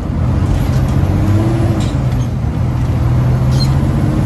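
Big-rig diesel truck engine running under way, a steady low drone whose pitch rises and dips briefly about a second and a half in.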